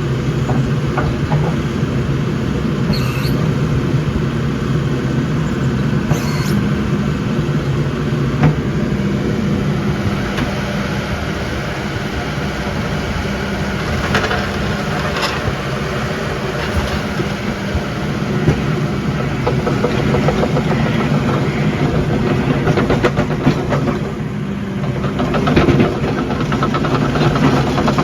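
Diesel engine of a Cat D3 crawler dozer running steadily, with a few short clicks and knocks over it.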